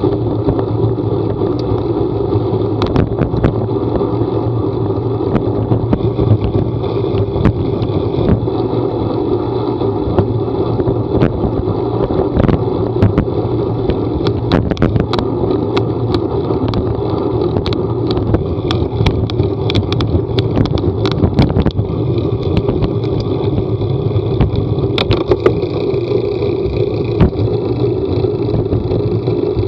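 A vehicle engine running with a steady drone, overlaid by many short, sharp clicks and knocks that come thickest in the middle.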